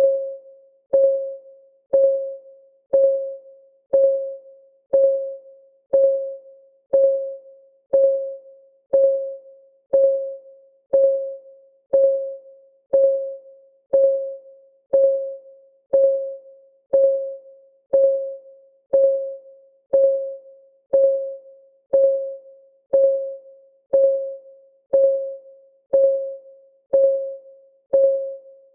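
Clock ticking for a countdown timer, steady at one tick a second; each tick is a short click with a brief pitched ring that fades quickly.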